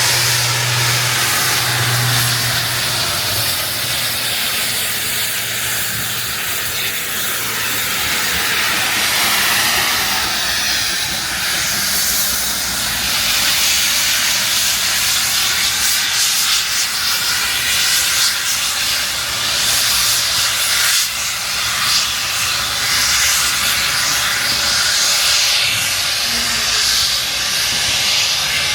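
Narrow-gauge steam locomotive letting off steam in a continuous loud hiss, with a low hum underneath for the first few seconds.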